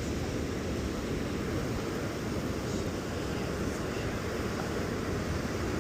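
Wind buffeting the microphone over steady ocean surf, a constant rumbling rush.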